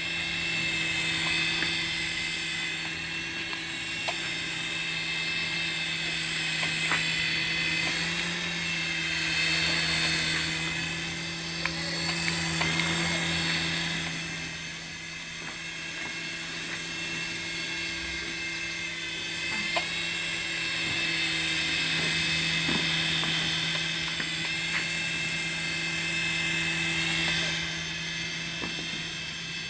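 Small electric motor and spinning rotors of a toy RC helicopter, a steady high-pitched whine and buzz that swells and fades in loudness several times.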